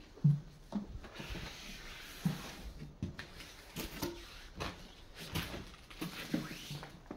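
Footsteps and scuffs on a hard, debris-strewn floor: irregular low thuds about once or twice a second, the loudest just after the start.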